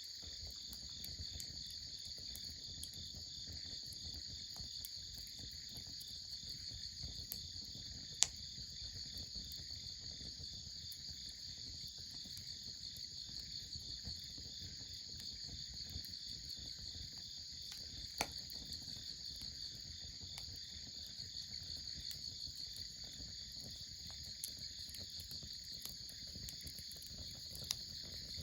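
Crickets chirping in a steady, rapidly pulsing chorus, with a few isolated sharp pops spread across it.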